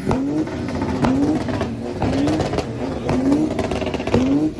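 Car engine revved over and over, about once a second, each rev rising in pitch, with a sharp crack between revs.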